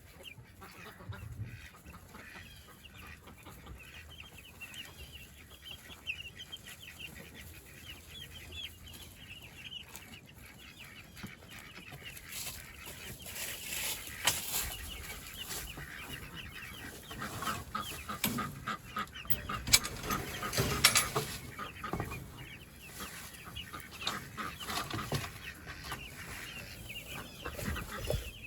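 Meat chickens clucking and cheeping, busier in the second half, with a few sharp knocks among them.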